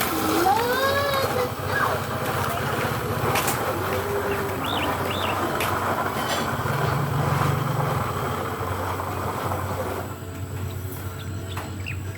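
A motor engine running steadily with a low hum, easing off about ten seconds in. A pitched call rises and falls near the start, and a few short high bird chirps come later.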